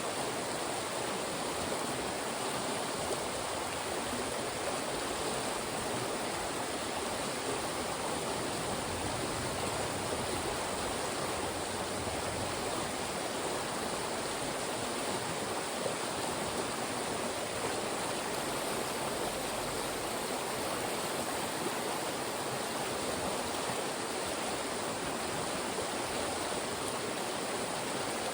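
Fast-moving mountain stream rushing through funnels of rocks: a steady, unbroken rush of water.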